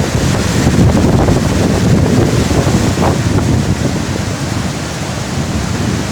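Waterfall water rushing in a loud, steady wash of noise, with wind buffeting the microphone in uneven low rumbles.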